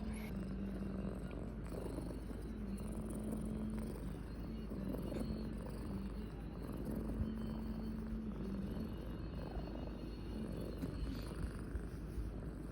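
Domestic cat purring close by, a steady low purr that comes in stretches of a second or two with short breaks between them.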